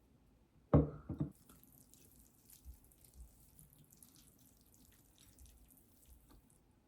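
A few hard knocks, then water running from a tap into a sink with small splashes for about five seconds before it is shut off.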